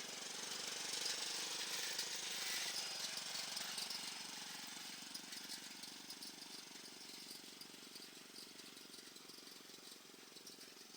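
Old cast iron washing machine engine, about three horsepower, running with a fast, even putter as it powers an old garden tractor. It grows fainter from about four seconds in.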